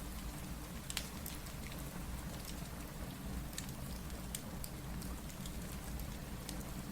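Steady rain mixed with the scattered pops and crackles of a wood fire, one sharper crackle about a second in.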